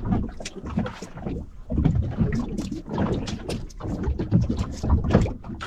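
Water slapping against a small boat's hull and wind buffeting the microphone, with irregular knocks and clatters.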